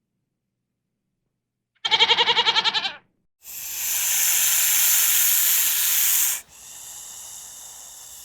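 A goat bleating once, a quavering call of about a second, then a loud hiss lasting about three seconds that cuts off abruptly and gives way to a fainter hiss.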